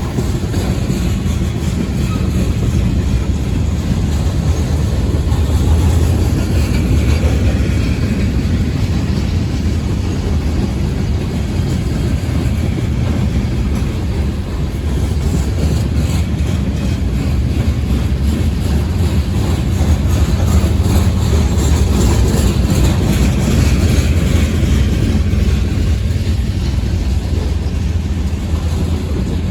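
Norfolk Southern freight train rolling past at close range: a steady, loud low rumble of the train on the track.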